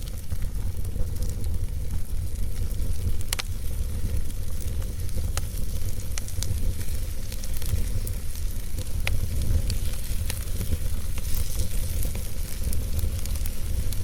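Wood fire burning in a fireplace: a steady low rumble and hiss of the flames, with scattered sharp crackles and pops from the logs, the loudest about three seconds in.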